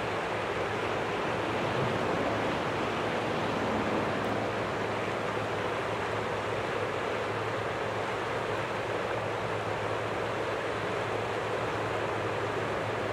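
Jet airliner's engines running, a steady rushing roar with a low hum underneath.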